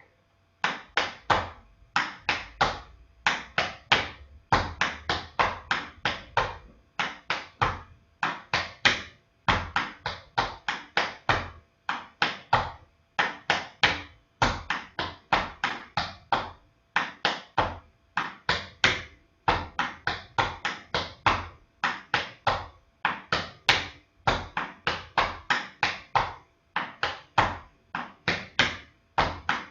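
Tap shoes striking a hard floor, dancing a Shim Sham tap step unaccompanied: quick clusters of sharp taps in rhythmic phrases, separated by short gaps.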